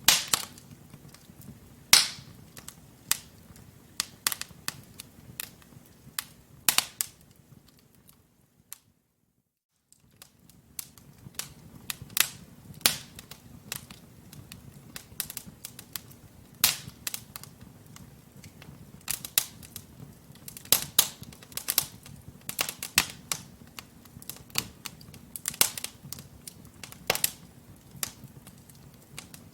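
Wood logs burning in a fireplace, crackling with irregular sharp pops over a faint low rumble of the flames. The sound cuts out completely for about a second roughly a third of the way in, then the crackling resumes.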